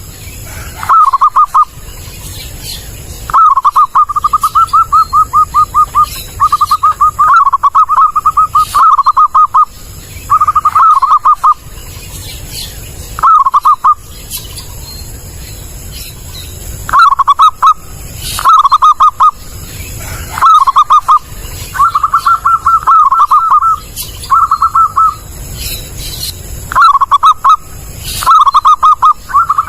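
Zebra dove (perkutut) cooing loud and clear: repeated phrases of rapid staccato notes at one pitch, each phrase lasting from under a second to a couple of seconds, with short pauses between them and a longer pause about halfway through.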